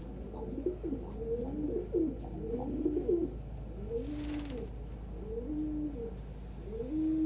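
Pigeons cooing: several overlapping coos at first, then a single low coo repeated about every second and a half. A brief rustling noise comes about four seconds in.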